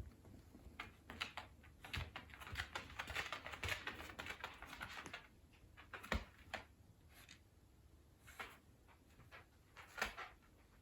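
Irregular light clicks and taps, densest in the first half, with a few louder knocks about two, six and ten seconds in.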